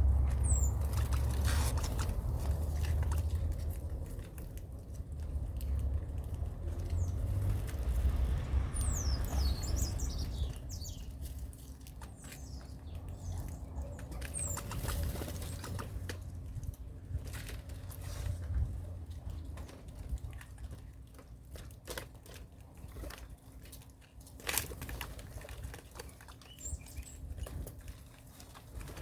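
Small birds fluttering their wings and rustling, with a few short, high, falling chirps. A low rumble fills the first ten seconds or so.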